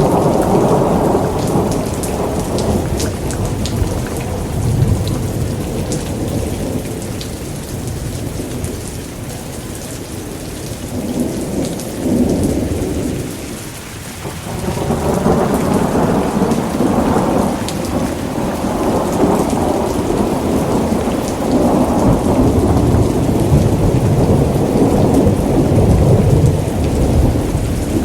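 Thunderstorm: steady rain with long, rolling thunder rumbles. The thunder dies down about halfway through, then swells again a second or so later.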